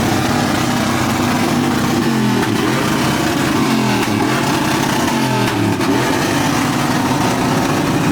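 Truck engine revving up and down several times, its pitch rising and falling in quick swells over a steady loud running sound.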